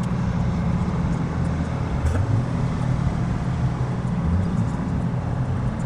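Heavy engine running steadily: a low, even drone.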